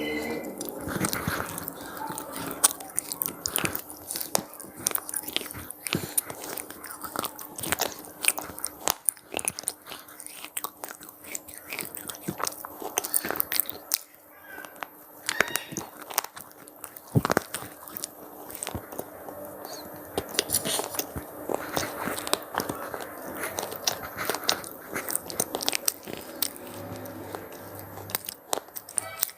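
Crunchy cheese pizza-flavoured puffed snacks being bitten and chewed close to the microphone: a dense, irregular run of sharp crackles and crunches.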